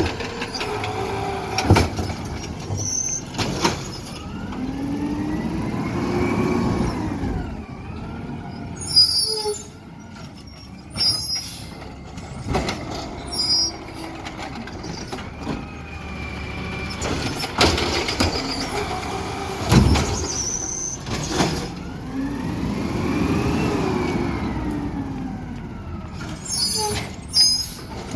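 Garbage truck engine revving up and falling back twice, with sharp knocks and short high squeaks in between.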